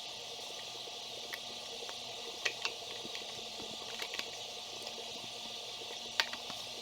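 Steady background hiss and low hum with a few scattered light clicks and taps.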